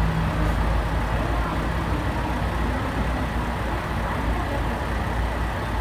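A train running at a station platform: a steady low rumble, with a low hum that fades out about half a second in.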